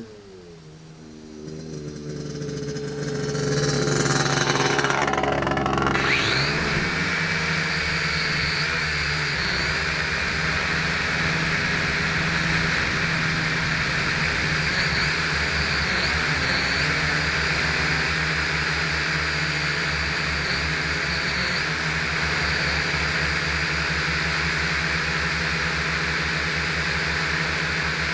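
Mini quadcopter's small electric motors and propellers spinning up with a rising whine about two to six seconds in, then running at a steady high whine with a low pulsing rumble underneath, heard close through the onboard camera.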